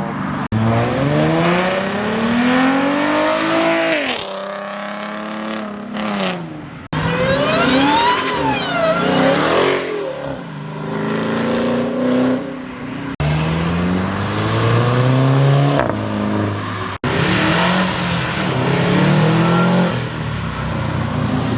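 Performance car engines accelerating hard, revving up and shifting gears again and again, in several short clips joined with abrupt cuts.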